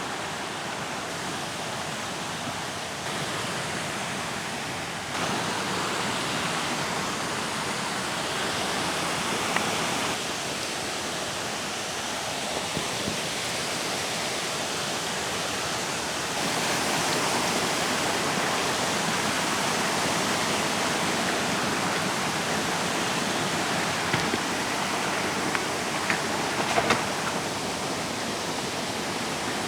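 Rushing mountain stream: a steady rush of water whose loudness shifts a few times, with a few light clicks near the end.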